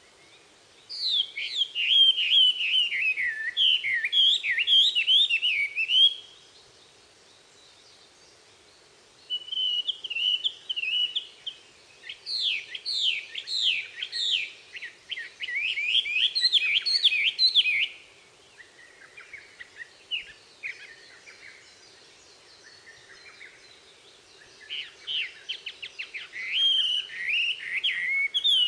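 Wild songbirds singing: bursts of rapid, high chirping song phrases made of quick downward-sliding notes, separated by pauses of a second or more.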